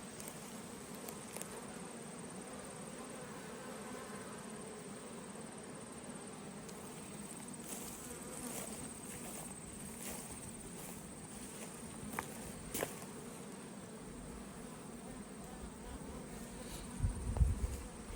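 Steady buzzing hum of many honeybees flying around the entrances of mating nucs. A couple of sharp clicks come around two-thirds of the way through, and louder low thumps near the end.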